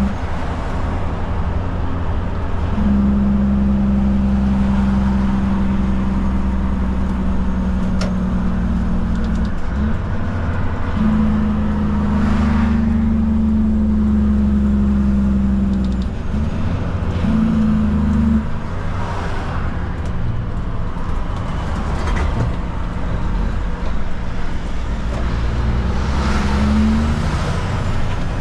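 Kenworth K200 cab-over truck's Cummins diesel engine running steadily while driving along at moderate speed, its engine note shifting up and down a few times as the revs change.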